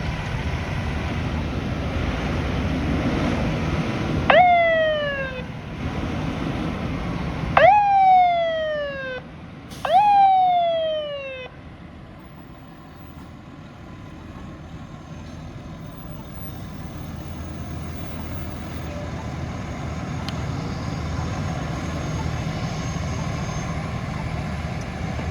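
Emergency vehicle siren giving three short blasts, each starting suddenly and sliding down in pitch over about a second, about 4, 8 and 10 seconds in, over a low vehicle engine rumble. Afterwards the engine and traffic rumble continues, steady and quieter.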